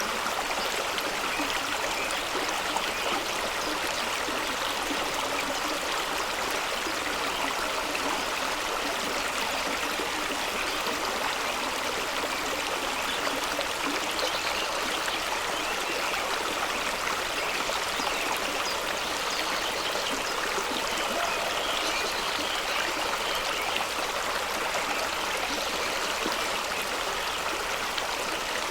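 Fast-running stream of water rushing and splashing over rocks, with a steady, even sound that does not change.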